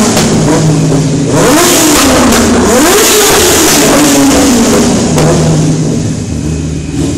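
Yamaha R6's inline-four engine through a LeoVince SBK aftermarket exhaust, revving in a tunnel. The pitch rises and falls and is loudest in the middle, then holds a steadier lower note near the end.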